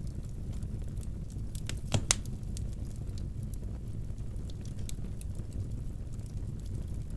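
Wood fire burning in a fireplace: a steady low rumble with scattered sharp cracks and pops, the loudest two close together about two seconds in.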